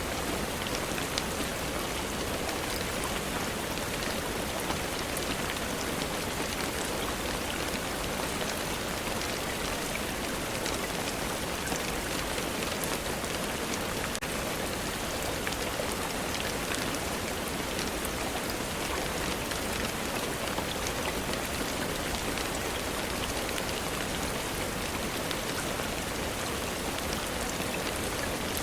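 Steady rainfall, an even hiss with scattered small ticks of drops, unchanging throughout.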